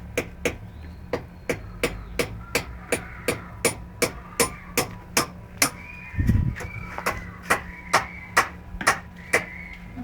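A ball bouncing over and over on a hard floor, in a steady run of sharp knocks about three a second, with one heavier thump about six seconds in.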